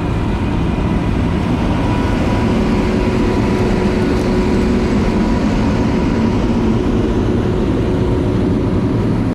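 Harvest machinery running steadily at work, a loud even engine-and-machine noise with a faint steady whine.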